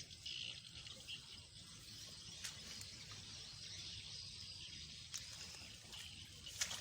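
Faint outdoor ambience: a steady high-pitched hiss with a low rumble beneath, broken by three short sharp clicks.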